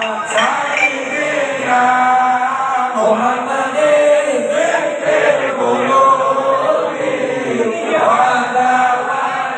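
Voices chanting sholawat, Arabic devotional songs, together in a steady melodic chant, amplified through a sound system.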